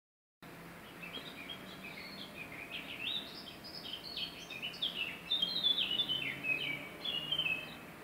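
A songbird singing a long, fast, varied run of short chirping notes, loudest in the second half and stopping just before the end, over a faint steady background hum of the outdoors.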